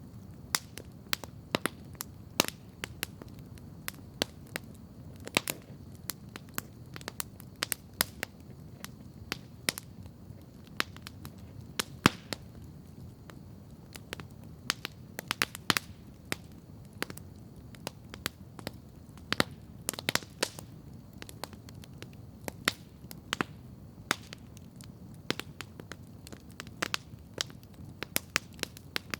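Wood campfire crackling: irregular sharp pops and snaps, several a second, over a low, steady background noise.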